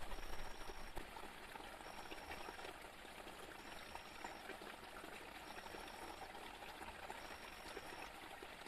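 Steady rain falling, an even hiss dotted with many small drop impacts. A faint high tone repeats throughout, each pulse under a second long, about every one and a half seconds.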